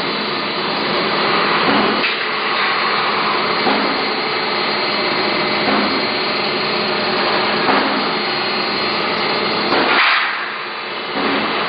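Machinery on a water heater tank production line running steadily, with a knock every two seconds or so and a louder burst about ten seconds in.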